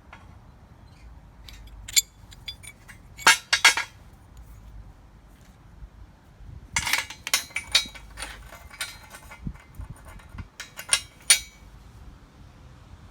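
Metal clinking and clattering in several short clusters, as of steel tools or parts being handled and set down on a hard surface.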